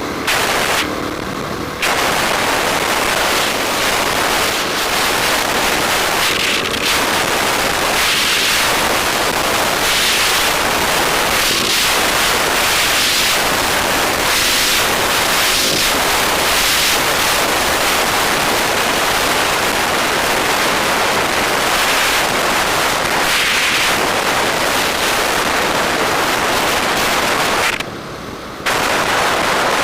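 Wind rushing over a microphone on a moving bike, a loud steady roar with crackling buffets. It eases briefly about a second in and again near the end.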